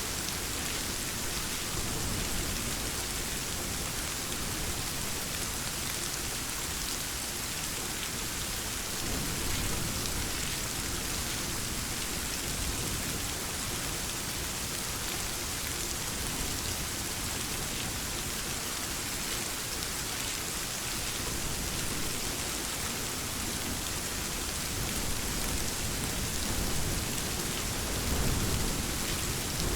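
Steady rain, with low rumbles of thunder swelling about ten seconds in and again near the end.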